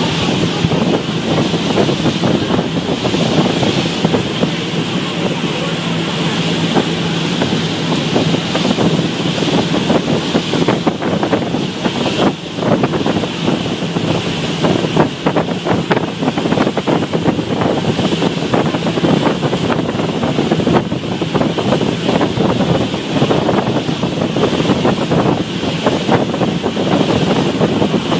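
Strong wind buffeting the microphone in gusts over a boat engine running steadily, with waves washing against the hull.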